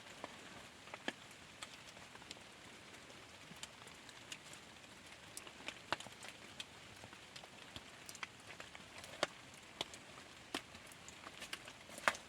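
Light rain falling: a steady faint hiss with irregular single drops ticking sharply on nearby surfaces.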